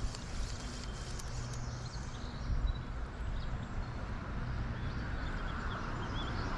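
Steady rush of a flowing creek with a low rumble, and a few faint bird chirps about two and a half seconds in and again near the end.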